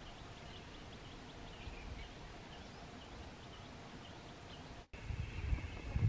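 Repeated short, high chirps of a small bird over outdoor ambience. About five seconds in, after a cut, a steady high-pitched drone takes over, with low rumbles.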